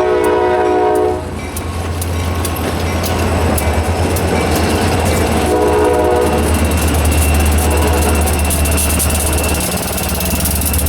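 Diesel locomotive passing close by: its multi-note air horn sounds, cutting off about a second in, then gives a short blast around the middle. A steady low engine drone and the clatter of wheels on rail carry on under it.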